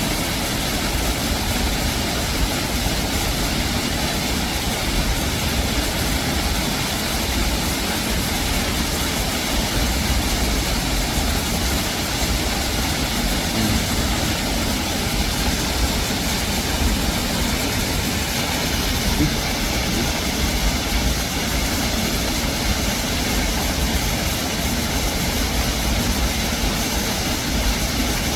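Waterfall: a steady, unbroken rush of falling water with a heavy low rumble.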